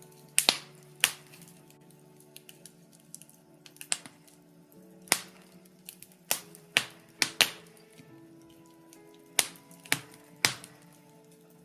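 Wood fire in a fireplace crackling, with about a dozen sharp pops scattered among smaller crackles, over soft, slow-changing background music.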